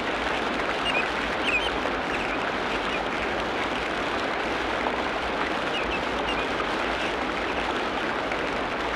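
Tropical rainforest ambience: a steady, dense wash of water noise, like rain on foliage or a running stream, with a few short high calls about a second and a half in and again around six seconds.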